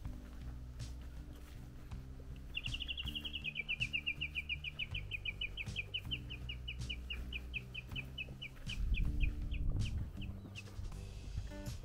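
A bird sings one long trill of high repeated notes lasting about eight seconds, fast at first and slowing toward the end, over soft background music with sustained low notes. About nine seconds in, wind rumbles on the microphone.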